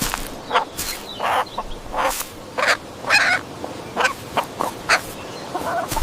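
A farm animal giving a rapid, irregular string of about a dozen short, sharp calls.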